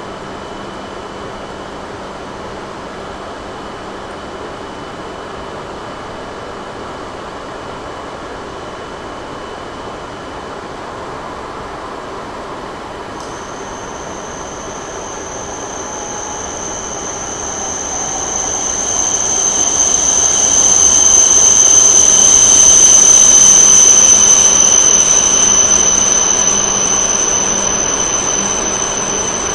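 A train approaching and passing: the running noise swells about halfway through, peaks, and fades near the end. A thin high whine sets in just before the swell and grows with it.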